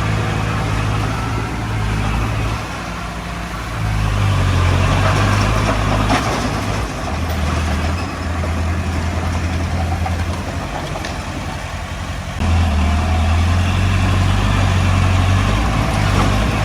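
Komatsu D20P crawler bulldozer's diesel engine working, its pitch and loudness stepping up and down as the load changes, getting louder about four seconds in and again after twelve seconds.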